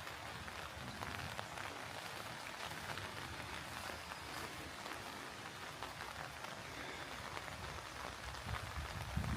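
Steady rain falling, an even patter of many small drops. A few low thumps come near the end.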